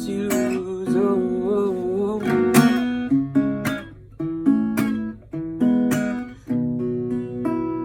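Acoustic guitar strummed in the closing bars of a song, with a held, wavering sung note over the first couple of seconds. A few separate chords follow, and the last chord rings out and fades near the end.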